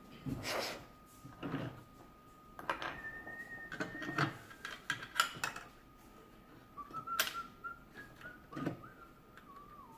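Small objects being handled, with clicks and rustles roughly once a second. A faint steady high whistle-like tone runs underneath, and short whistled notes glide downward near the end.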